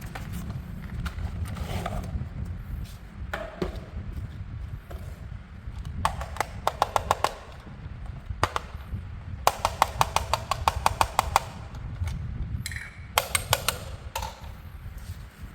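Handling noise with several runs of rapid clicking, about ten clicks a second, the longest run lasting about two seconds.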